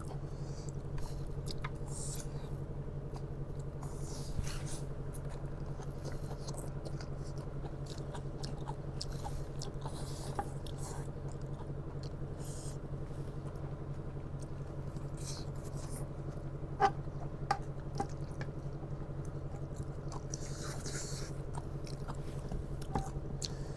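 People chewing and biting into spicy noodles, with scattered small clicks and short mouth and eating noises, loudest briefly about two-thirds of the way in. A steady low hum runs underneath.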